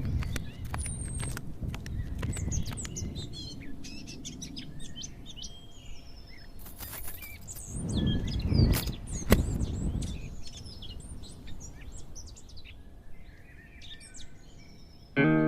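Small birds chirping and calling outdoors, with sharp clicks in the first couple of seconds and a louder low rumble with a single knock about two-thirds of the way through. Guitar music comes in right at the end.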